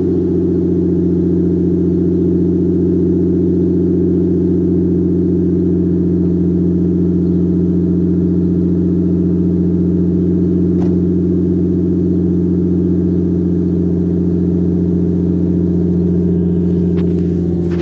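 Nissan RB20 non-turbo straight-six engine idling steadily with no exhaust fitted, running open from the downpipe. The note holds an even pitch throughout, with a faint click about eleven seconds in and a few more near the end.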